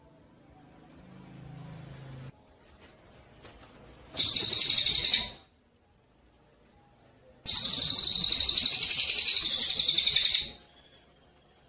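Gereja cililin sparrow (Eurasian tree sparrow type) singing in rapid, high chattering trills, with pauses between them. A burst of about a second comes around four seconds in, and a longer trill of about three seconds follows a few seconds later.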